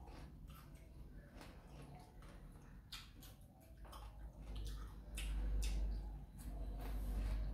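Eating sounds: wet chewing and small scattered clicks as fried quail eggs are eaten, with a low rumble that comes in about halfway through.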